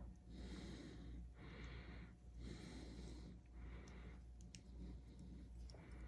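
Faint breathing close to the microphone, slow even breaths about one a second, with a few small faint clicks from handling small plastic parts.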